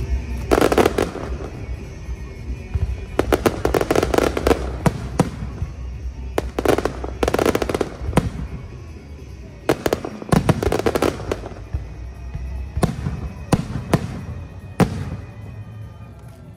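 Aerial fireworks going off in volleys. Each volley is a burst of rapid crackling pops, about five volleys a few seconds apart.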